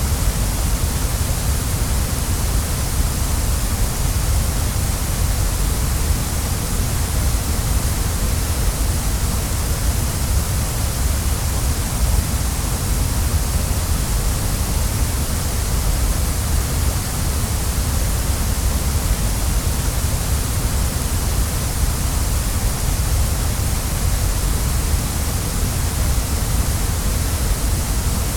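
Waterfall: a steady, unbroken rush of falling water, with a deep rumble underneath and a bright hiss on top.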